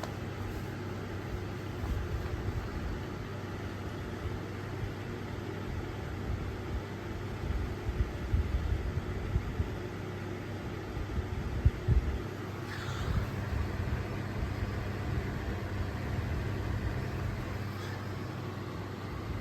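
Edison model 224527 ceiling fan running, its motor giving a steady hum over an uneven low rumble.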